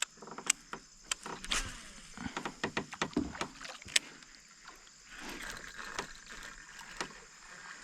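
Irregular sharp clicks and knocks on a kayak, with a soft wash of water about five seconds in.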